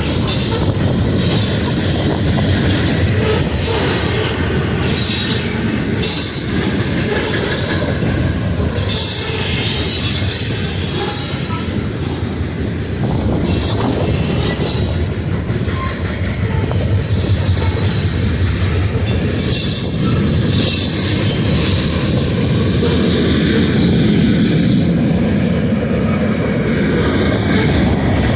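Freight train rolling past: a steady rumble of wheels on rail, with repeated short clacks as the cars go by.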